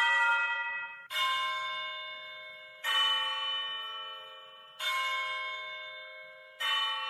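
A bell struck four times, about once every two seconds, each stroke ringing out and fading before the next.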